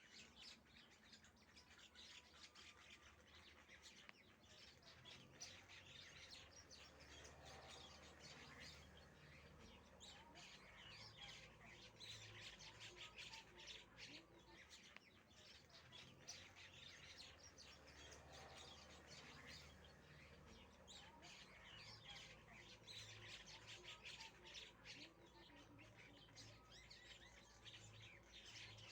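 Baby ringneck parakeets chirping faintly, a busy run of short, rapid chirps that keeps up throughout.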